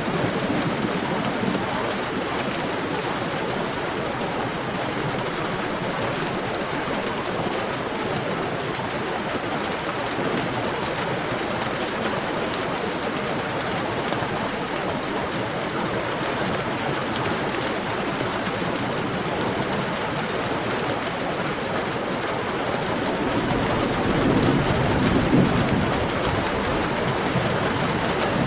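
Heavy rain falling steadily, an even hiss of drops, with a low rumble of thunder swelling near the end.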